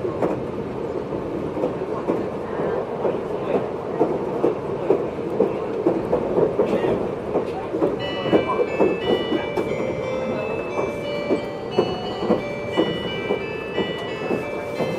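Running sound inside a JR 583-series electric train car: a steady rumble with wheels clacking over rail joints about twice a second. About halfway in, the on-board chime starts playing a melody of high notes over the running noise.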